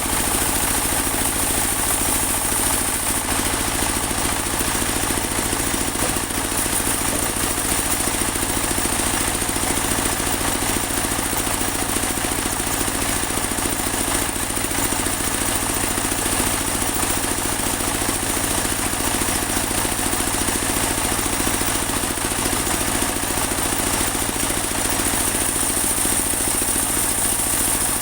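Portable bandsaw sawmill's engine running steadily, with a constant high whine over it.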